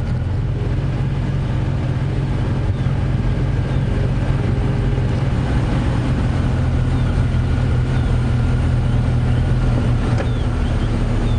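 Safari game-drive vehicle's engine running steadily as it drives along, a continuous low drone, with a couple of faint high chirps over it.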